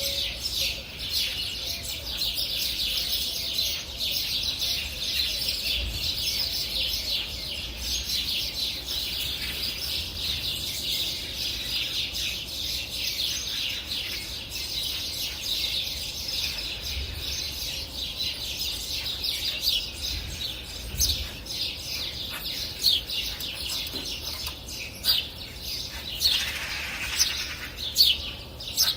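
Many small birds chirping and singing together, a dense, continuous chorus of high, rapid chirps and trills, with a few louder single calls near the end.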